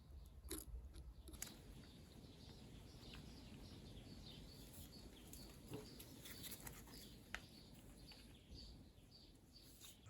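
Near silence: faint scattered small clicks and ticks over a low hum.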